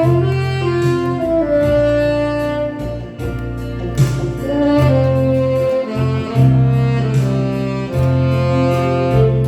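Saxophone playing a song melody in held notes over an accompaniment with a low bass line and a steady beat.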